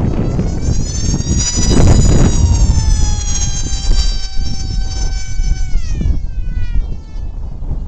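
Electric motor and propeller of a Ritewing Lightning 36 RC flying wing whining in flight: the pitch climbs over the first couple of seconds, holds steady, then drops quickly about six seconds in. Heavy wind rumble on the microphone.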